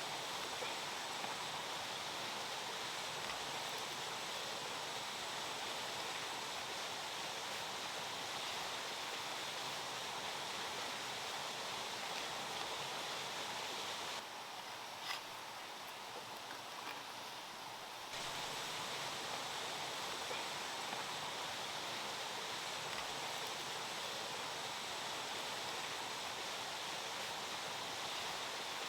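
Steady rush of running water. For about four seconds near the middle the sound drops and changes, with one sharp click.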